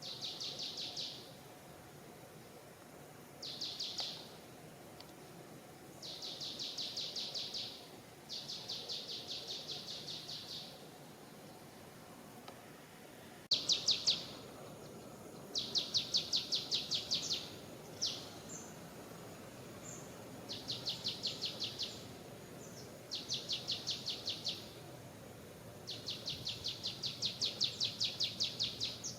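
A bird calling over and over in high, rapid trills. Each trill is a run of quick, evenly spaced notes lasting one to two and a half seconds, with short pauses between them, over a faint steady background of outdoor noise.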